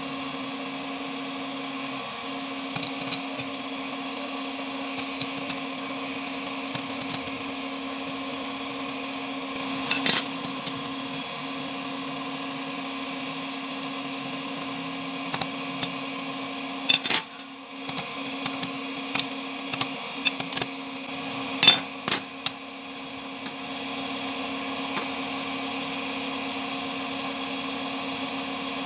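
A steady machine hum with a constant pitch, with a few sharp metal clinks and taps from tools and parts, the loudest about a third of the way in and again past the middle.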